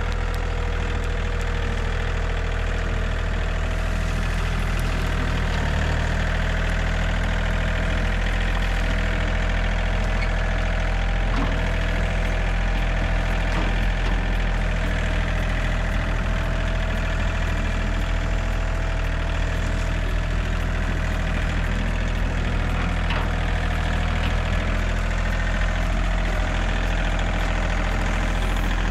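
John Deere 3320 compact tractor's three-cylinder diesel engine running steadily at an even speed.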